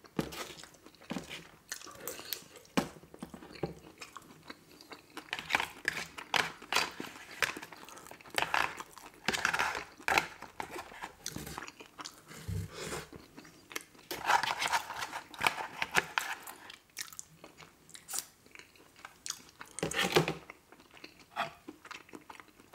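Close-miked chewing and lip smacking of a mouthful of Wendy's chili cheese fries: irregular wet smacks and clicks, with heavier bursts of chewing about ten seconds in and again a few seconds later.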